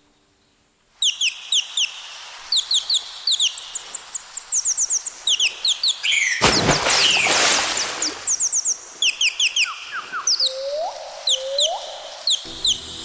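A chorus of small birds chirping in quick, high, sharply falling notes, repeated over and over. Near the middle comes a loud harsh call lasting a second or two, and near the end two short rising calls.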